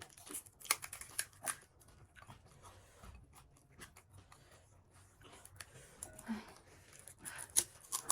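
Crisp panipuri (puri shells) crunching and being chewed close to the microphone: short sharp crackling clicks in clusters near the start and again near the end, quieter in between.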